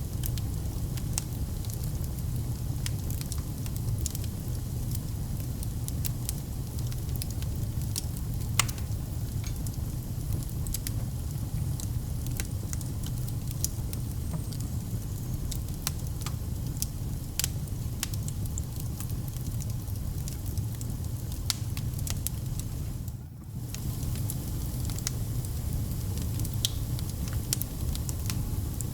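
Wood fire burning in a fireplace: a steady low rumble of flames with frequent sharp crackles and pops from the burning logs. The sound drops out briefly about three-quarters of the way through.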